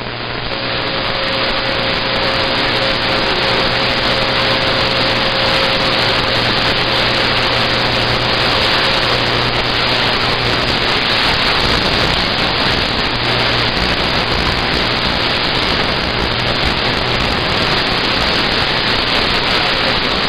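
Loud, steady hiss of band noise from a CB radio receiver with its squelch open between transmissions, with a faint steady whistle through roughly the first half.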